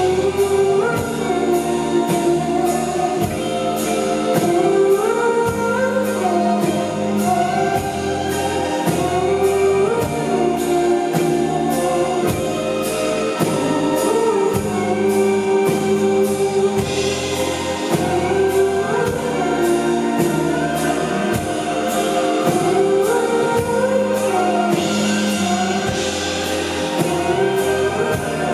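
Live band playing a song: a sung vocal melody over a steady beat and bass.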